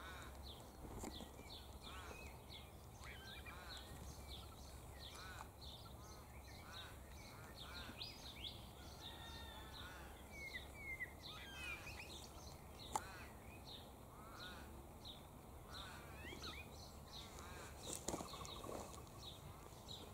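Wild birds chirping and calling, faint, with many short high calls overlapping one another. One sharp click stands out about two-thirds of the way in.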